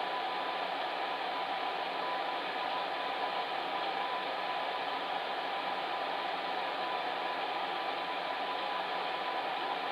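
Electric fan heater running: a steady airy whoosh of blown air with a faint, even hum under it.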